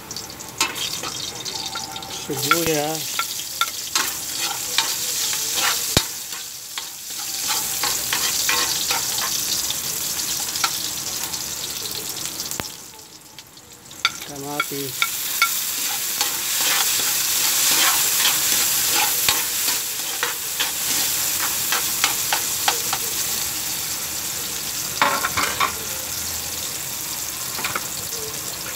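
Garlic, onion and tomato sautéing in hot oil in an aluminium wok: a steady sizzle with a metal spatula scraping and tapping against the pan. The sizzle dips briefly about halfway through, then comes back loud.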